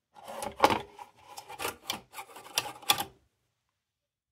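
Tin hot blast lantern being handled: quick irregular metal clicks, taps and rattles from its globe lift mechanism being worked. The sound cuts off suddenly about three seconds in.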